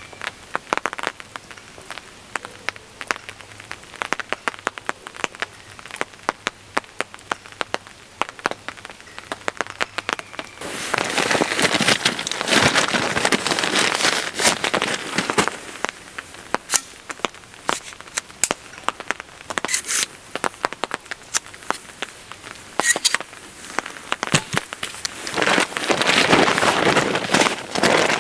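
Raindrops pattering on a tarp in scattered sharp taps. Twice a louder spell of rustling noise swells up, for about five seconds about eleven seconds in and again near the end.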